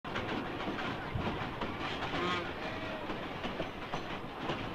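Narrow-gauge passenger train running: a steady rattle of wheels on the rails with irregular clicks and knocks, and a brief higher-pitched sound over it a little past two seconds in.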